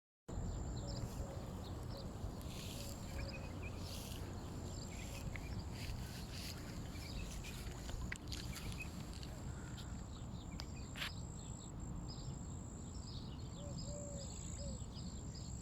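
Outdoor ambience: a steady low rumble of wind-like noise with many short bird chirps, thickest near the end, and a thin high steady whine.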